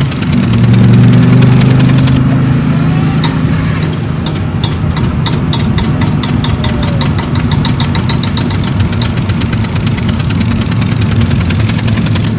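Diesel-tractor engine sound idling steadily, with a rapid, even knock running through it.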